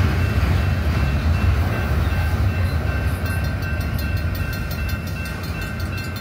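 Freight train boxcars rolling past on the rails: a steady low rumble of wheels on track that eases off slightly as the last car goes by, with quick, even clicking in the second half.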